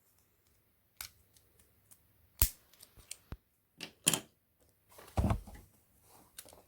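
Scattered, irregular clicks and light knocks of small parts being handled while a diecast model car is taken apart, with one longer scraping handling noise about five seconds in.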